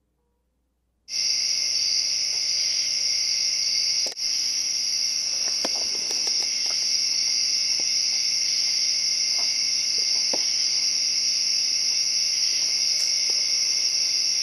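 A steady, high-pitched insect chorus drone that starts abruptly about a second in, with a few faint ticks over it.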